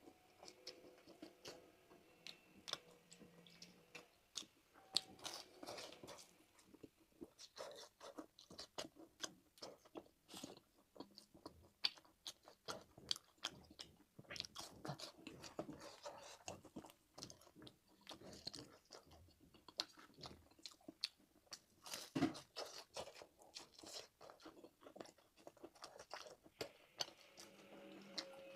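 A person chewing and biting food with many small, irregular wet clicks and crunches: eating a meal of fried rice and sausage.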